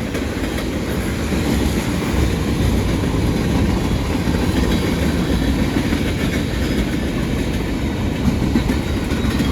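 Freight cars of a CSX manifest train rolling past: a steady rumble of steel wheels on the rails.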